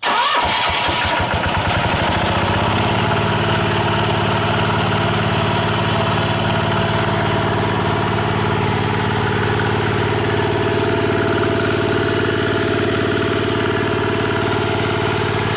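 Kubota EL300 single-cylinder 4 hp direct-injection diesel starting up: it catches right away, its firing strokes quicken over the first two or three seconds, then it runs at a steady speed.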